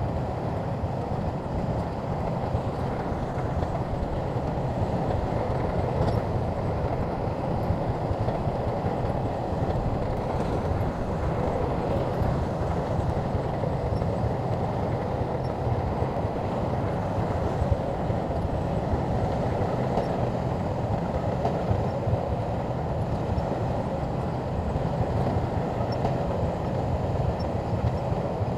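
Shantui bulldozer working, its diesel engine running at a steady level with a low, even rumble.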